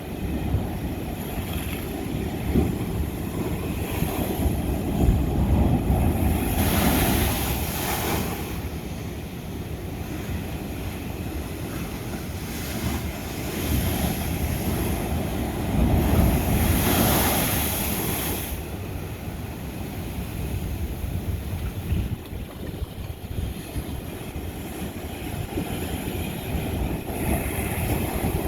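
Ocean waves breaking on a lava-rock shore under a steady low rumble, with two big waves crashing and washing in hissing surges, about a quarter of the way in and again just past the middle.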